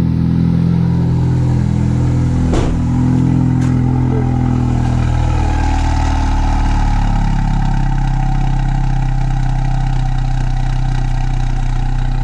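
Ford Focus RS 2.3-litre turbocharged four-cylinder idling through an exhaust whose active valve is held wide open by a bypass plug, giving a steady, fuller sound from both tailpipes. The idle eases slightly lower around six or seven seconds in. A single sharp knock sounds about two and a half seconds in.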